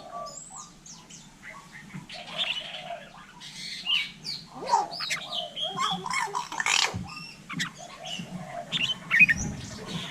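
Common hill myna calling: a string of varied short whistles, squawks and clicks, some of them gliding in pitch.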